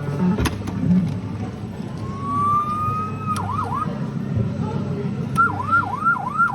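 Electronic fire-engine siren sound effect from a Falgas 4S fire truck kiddie ride: a tone winds up for about a second, then breaks into quick up-and-down wails, pauses and starts wailing again near the end. The ride's tune dies away about a second in, and there is a sharp click shortly after the start.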